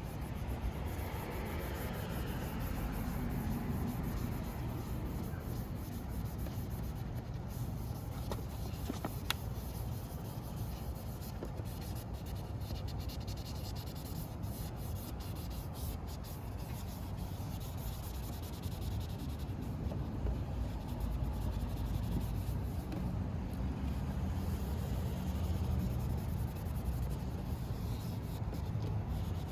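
3000-grit sandpaper rubbing back and forth by hand over a plastic headlight lens during wet sanding, a steady scratchy scrubbing, over a low rumble.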